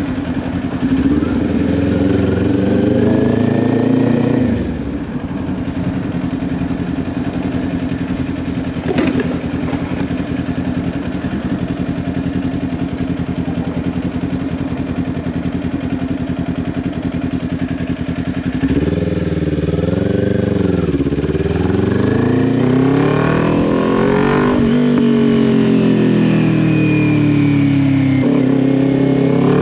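Kawasaki Ninja 400's parallel-twin engine through a Leo Vince LV10 slip-on exhaust. It revs up over the first few seconds, then drops and holds a steady idle for about fourteen seconds, with one short sharp sound about nine seconds in. From about nineteen seconds on it accelerates again, the revs rising and falling with the gear changes.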